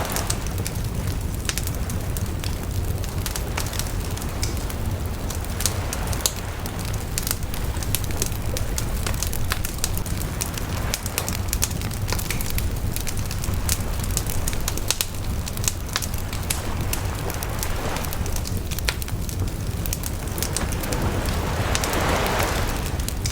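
Wood bonfire crackling, with many irregular sharp pops over a steady low rumble. A hissing rush swells briefly near the end.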